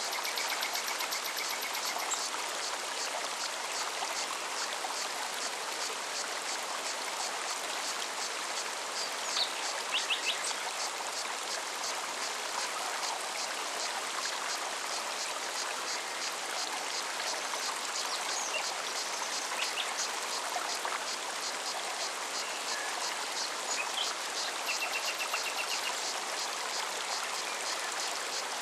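Forest stream running steadily over rocks, with a cicada's evenly pulsing high song throughout. A few short bird calls come in briefly at the start, about ten seconds in, and as a repeated chirp near the end.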